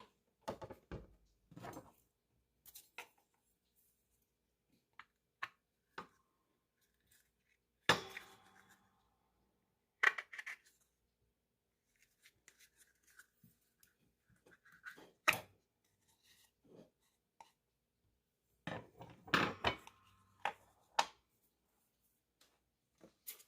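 Scattered short clicks, taps and scrapes of objects being handled, with silent gaps between; the loudest clusters come about eight, ten, fifteen and twenty seconds in.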